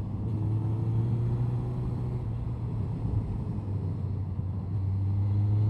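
Honda CBR1100XX Blackbird's inline-four engine running under throttle on the road, its pitch rising slowly as the bike pulls in gear at mid revs.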